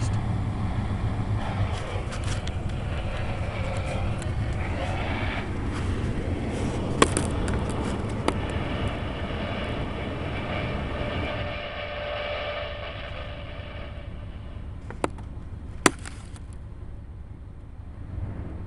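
The 5.7-litre 350 small-block V8 of a 1995 Chevy Cheyenne C2500, with throttle body injection, idling as it warms up from a cold start. The low engine sound drops down about two-thirds of the way through, and a few sharp clicks sound over it.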